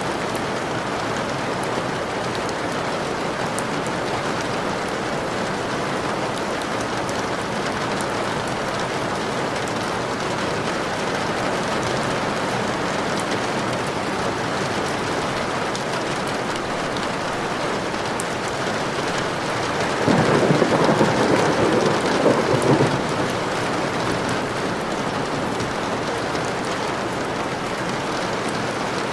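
Steady rain falling, with a roll of thunder about twenty seconds in that lasts some three seconds.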